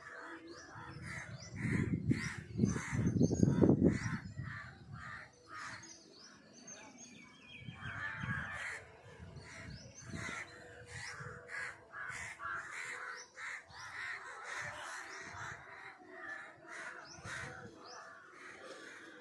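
A flock of crows cawing, many harsh calls overlapping one another. A loud low rumble comes in about two seconds in and lasts a couple of seconds.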